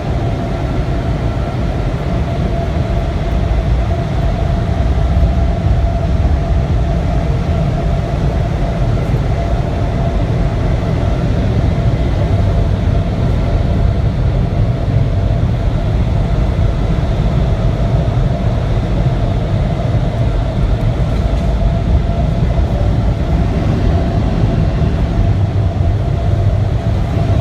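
Car wash air-dryer blowers running, a loud steady rush of air with an even whine over a low rumble, heard from inside the car.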